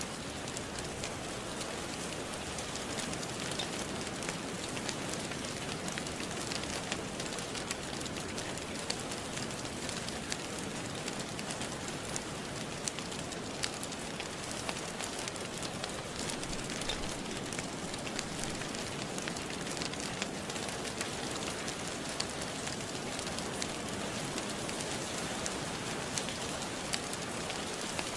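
Steady rain falling, with a wood fire crackling in a fireplace: small sharp pops scattered throughout over the even hiss of the rain.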